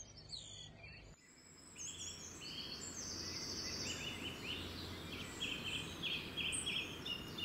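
Birds singing: short high trilled phrases, repeated again and again, over a faint steady low hum. The background changes abruptly about a second in.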